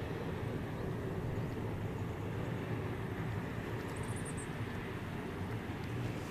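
A train's steady low rumble, even throughout, with a brief faint high chirp about four seconds in.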